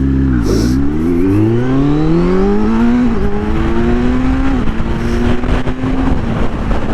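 Sport motorcycle engine accelerating hard from a standstill: the pitch climbs, drops at an upshift about three seconds in, climbs again and drops at a second upshift, then holds steady at speed with rising wind noise.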